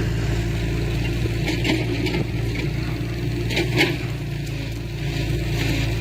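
Diesel engine of a piece of heavy earthmoving machinery running steadily, with a few short clanks and scrapes around two seconds in and a louder one just before four seconds.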